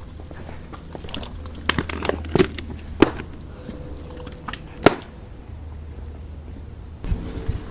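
Beehive parts being handled: a handful of sharp clicks and knocks, the loudest about three seconds and five seconds in, over a low steady background.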